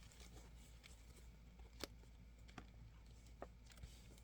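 Near silence, broken by four faint clicks as the plastic planner covers are handled.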